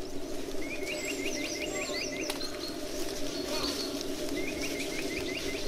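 Forest birdsong: a bird calls in two quick runs of short rising notes, about six a second, one near the start and one near the end, with fainter high chirps over a steady low background hum.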